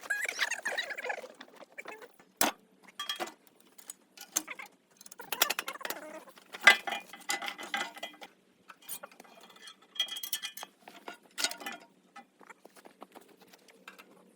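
Metal tools and engine parts clinking, rattling and knocking on and off during an engine teardown. The loudest sharp knocks come about two and a half seconds in and again near seven seconds.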